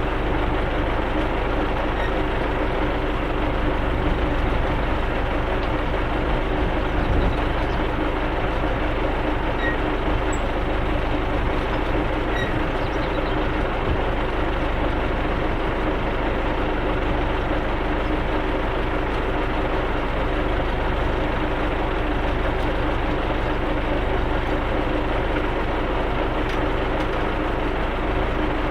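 Tractor diesel engine running steadily at constant speed while pulling field rollers across sown ground, with an even drone.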